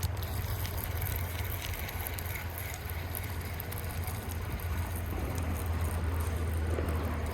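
A steady low motor drone with an even outdoor hiss over it and a few faint clicks.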